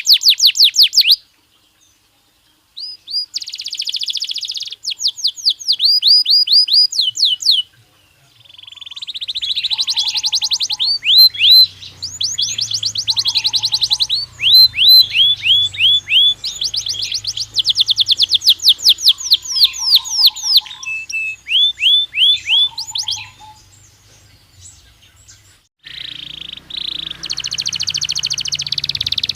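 Belgian canary singing in long, loud phrases of rapid trills and repeated downward-sweeping notes, with brief pauses between tours.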